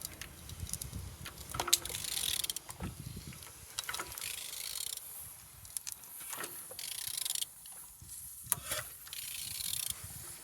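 Used engine being turned over by hand with a wrench: irregular spells of ratchet clicking, metal clicks and scraping as the crankshaft rotates. The engine turns freely, a sign that it is not seized.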